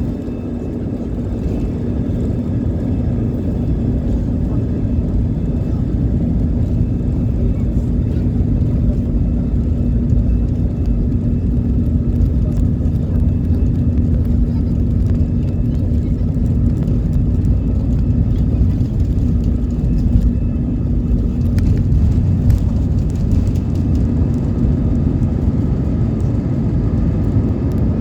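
Airliner engines at high takeoff power: a loud, steady low rumble with a constant hum, building slightly in the first couple of seconds.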